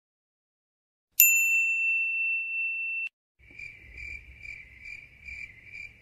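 A single ding sound effect: one clear, bell-like tone that rings for about two seconds and cuts off abruptly. About three seconds in, a fainter crickets sound effect begins, chirping in even pulses about twice a second.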